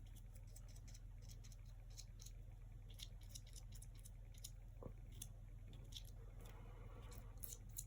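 Faint, scattered ticks and scratches of a paintbrush working acrylic paint on a canvas, over a low steady hum.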